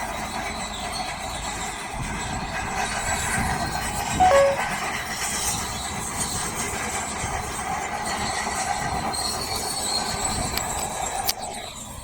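Heavy earthmoving machinery running steadily with metallic clatter. A brief loud squeal comes about four seconds in, and a sharp click just before the end, after which the sound is quieter.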